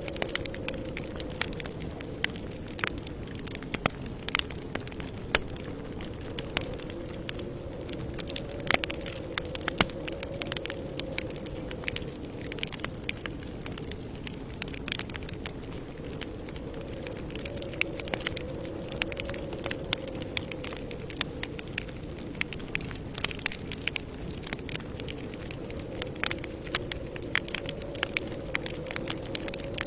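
Campfire crackling, with frequent irregular sharp pops and snaps over a low, slowly wavering hum.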